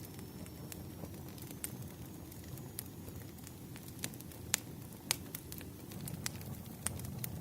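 Wood fire burning with a steady low rumble and irregular sharp crackles and pops, a couple of them louder about halfway through.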